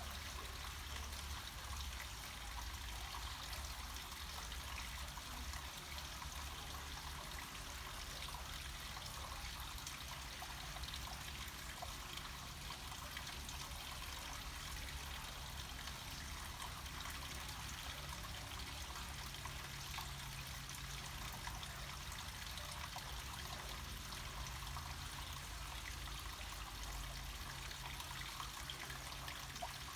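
Water flowing and trickling steadily down a small mountain stream, with a low rumble underneath.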